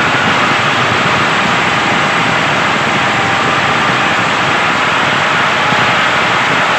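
Small electric motor of a DIY toy tractor and water pump running steadily: an even whirring hiss with a faint high whine.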